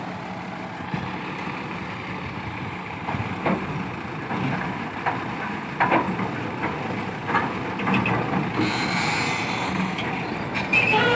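Heavy diesel machinery running steadily, with scattered metal clanks and knocks. About eight and a half seconds in, a hiss lasts for a second or two.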